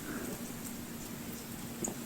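Lull between axe blows while splitting firewood. The tail of the last blow dies away, then a low steady hum, with a faint knock near the end.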